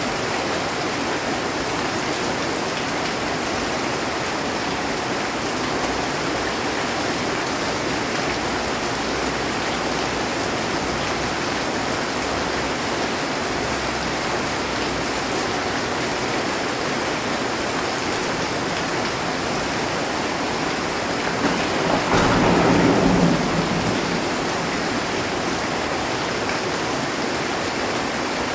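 Heavy rain falling steadily on a metal roof, with one roll of thunder about three-quarters of the way through that swells and fades over roughly two seconds.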